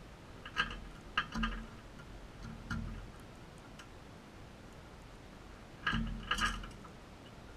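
A few sharp clicks and light knocks, each with a dull thump under it: several in a cluster about a second in, and another cluster around six seconds in.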